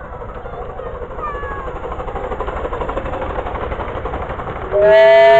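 Miniature railway train running and drawing closer, growing steadily louder with a few brief squeals, then a loud steady whistle from the locomotive sounding near the end.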